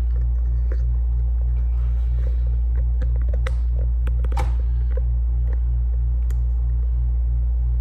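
Loud steady electrical hum with a low buzz pulsing evenly about three to four times a second, and a few light clicks and knocks on top.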